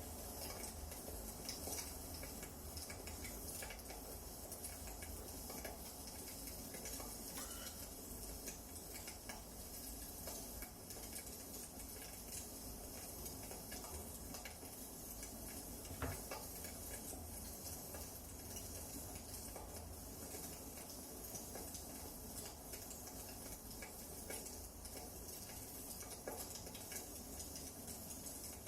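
Wood fire crackling softly in a fireplace: a low steady hiss with small scattered pops, and one louder pop about halfway through.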